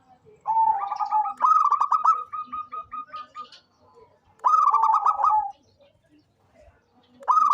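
Local-strain zebra dove (perkutut) singing: three phrases of quick, clipped cooing notes, the first and longest lasting about three seconds, a short one after a pause, and the next starting near the end.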